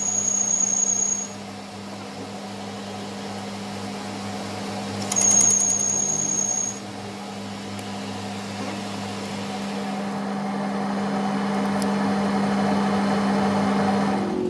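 A workshop machine running with a steady hum. Twice it is joined by a loud, high-pitched steady whine: briefly at the start and again for about a second and a half midway.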